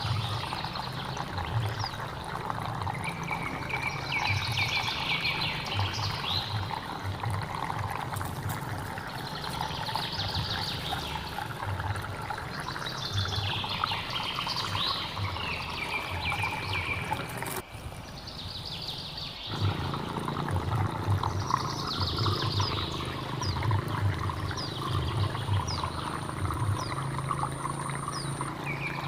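A hill stream flowing steadily, with birds singing over it; one song phrase with a falling trill repeats every few seconds. The water sound drops out briefly a little past the middle.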